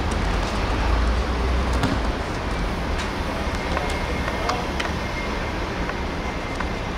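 Outdoor pitch ambience: a steady rumbling hiss like wind on the microphone and distant traffic, heaviest in the first two seconds, with a few sharp knocks of a football being kicked and faint distant shouts from players.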